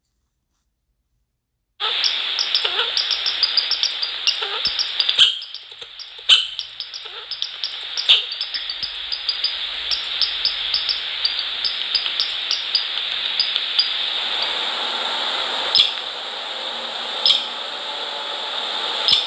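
Small birds at a feeder chirping in quick, high, repeated notes, with sharp pecking clicks. The sound starts abruptly about two seconds in. The chirping thins out in the last few seconds, leaving a steady hiss and a few louder knocks.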